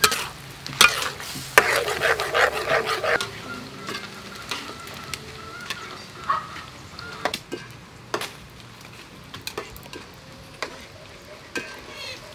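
Chicken wings deep-frying in a wok of hot oil, sizzling steadily. Metal spoons and a strainer clink and scrape against the woks as the sauce is stirred, with a louder stretch of scraping about two seconds in.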